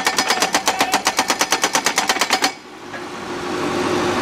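Pile driver hammering rapidly, about eight blows a second, stopping suddenly about two and a half seconds in; an engine then keeps running steadily.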